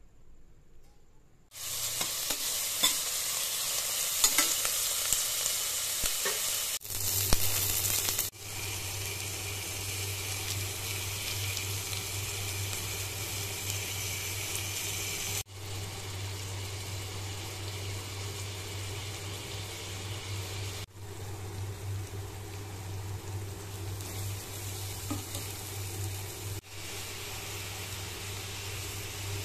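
Oil sizzling in a metal pot as shallots, curry leaves and ginger-garlic paste, and then chicken pieces, are fried and stirred. The sizzle starts about a second and a half in and breaks off briefly at several edits, with a low steady hum under it from about seven seconds on.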